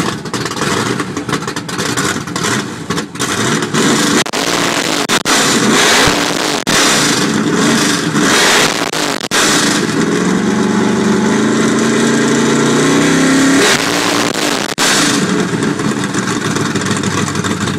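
A 1982 Ford Mustang drag-and-street car's 351 Windsor V8, built to about 700 horsepower, being revved hard over and over. Several quick blips are followed by a longer rev that climbs for a few seconds and then drops back.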